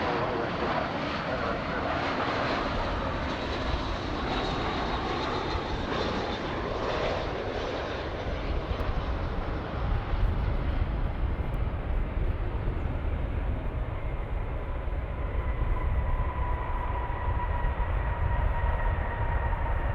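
Jet aircraft engines: a steady rush that gives way to a deeper rumble, with a faint whine slowly dropping in pitch through the second half.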